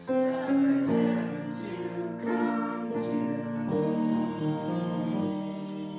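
Music: voices singing a slow song, held notes moving from one pitch to the next, with instrumental accompaniment.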